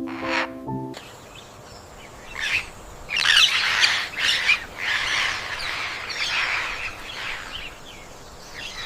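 Parrots squawking and chirping in a dense, scratchy flurry that starts about two seconds in and is loudest a little past the middle. A short stretch of music stops about a second in.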